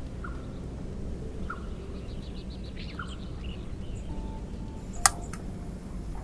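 Birds chirping: a short call repeats about every second and a half, with a quick trill of higher notes in between, over a steady low rumble. A single sharp click comes about five seconds in.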